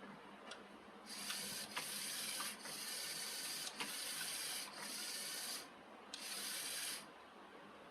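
Six short bursts of steady, high hissing, each just under a second, starting and stopping sharply with brief gaps between them, the last after a longer pause.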